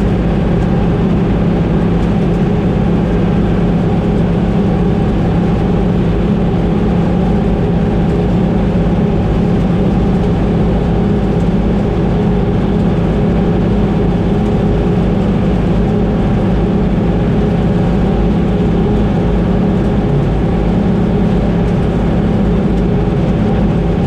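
Combine harvester running steadily in the field: a loud, constant drone of engine and threshing machinery with several steady hum tones, unchanging throughout.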